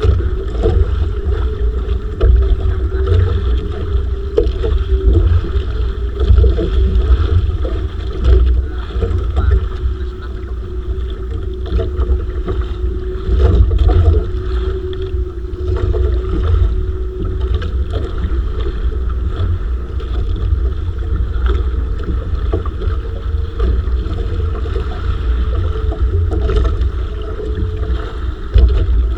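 Bangka's engine running steadily while under way, with wind buffeting the microphone.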